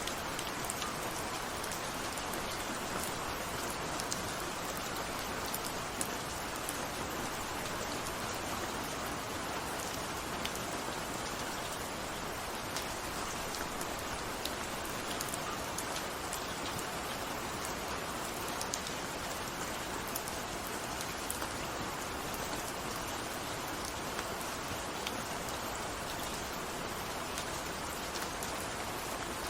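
Steady rain falling, a continuous hiss with many small drops ticking on a surface.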